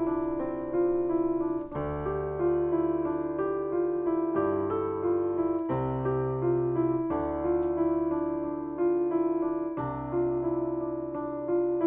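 Background music: a slow piano piece, a repeated high note over chords that change every couple of seconds.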